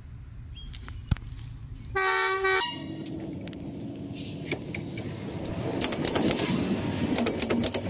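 A train horn sounds once, briefly, about two seconds in. Then the locomotive comes up and its steel wheels roll past close by on the rails, a rising rumble with rapid clicks and clatter near the end.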